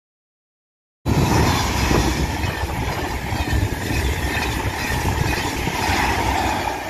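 A passenger train passing close by at speed: a loud, steady rush of wheel-on-rail and wind noise. It cuts in abruptly about a second in, after a second of silence.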